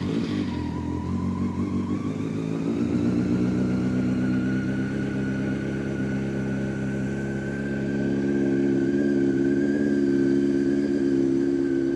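Honda CBR600F4i inline-four engine catching just after starter cranking and then idling steadily, running as normal.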